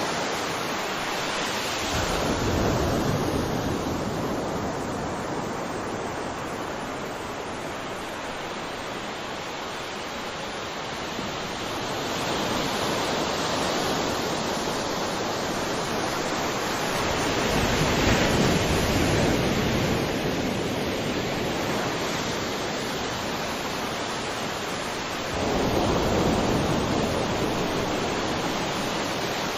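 Ocean waves breaking and washing on shore in a steady rush, with a new wave swelling in about every five to eight seconds, the strongest near the start, around the middle and near the end.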